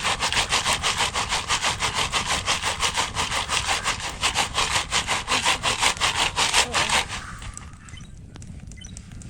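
A Jiffy Pop foil pan shaken hard over the campfire: a fast, even scraping rattle of about seven strokes a second, which stops about seven seconds in.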